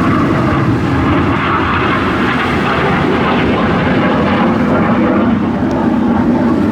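Display aircraft flying past overhead: a loud, steady rushing engine noise.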